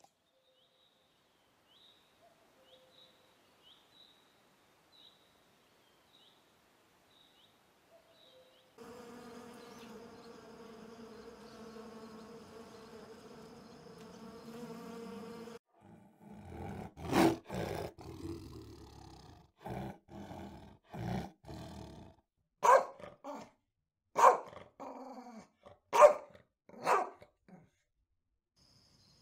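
After a near-silent stretch with faint high chirps, a steady buzz of bees at flowers runs for about six seconds. Then a dog growls and barks, ending in four sharp barks about a second apart.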